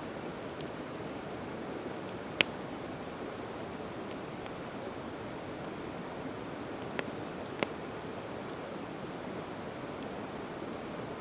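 Campfire of split evergreen wood burning, with a few sharp crackling pops, the loudest about two seconds in and two more near the middle, over a steady rush of river water. A high, even chirp repeats about two and a half times a second through the middle.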